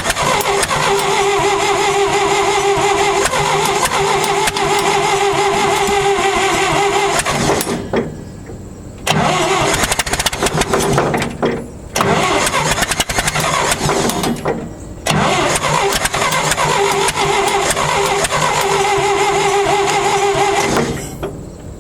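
A vehicle's engine being cranked by its starter on a cold start, in four long bursts separated by short pauses, the last one stopping near the end.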